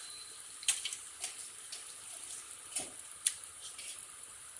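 Chicken pieces sizzling as they go into hot oil with fried onion masala: a steady hiss with a few sharp clicks.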